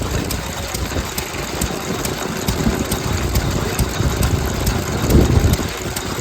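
Vintage stationary engine running with a steady chugging beat and regular light clicks. There is a louder surge about five seconds in.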